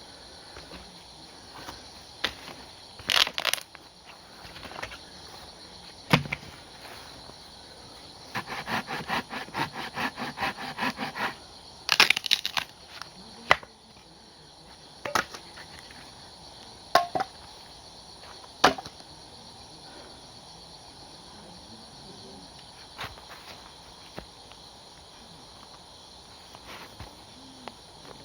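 Wood being worked by hand at camp: a handful of sharp knocks and cracks, and a few seconds of rapid back-and-forth rasping strokes in the middle, like sawing or scraping wood. Crickets chirp steadily behind it.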